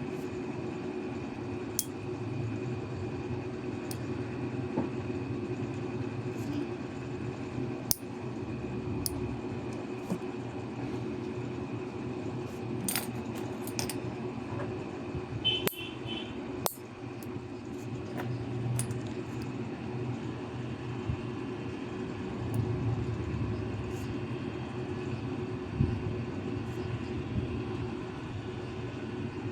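Metal nail clippers cutting thick toenails: scattered sharp clicks and small metallic clinks, a quick cluster of them in the middle, over a steady low hum.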